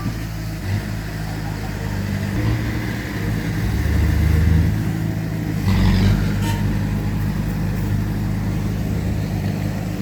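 Heavy diesel earthmoving machinery running under load, the engine note rising about 4 seconds in and again about 6 seconds in. A short clatter comes with the second rise.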